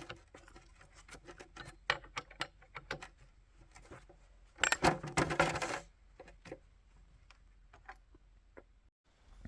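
Scattered light clicks and rattles of a chainsaw being handled, with a longer scraping rustle about five seconds in.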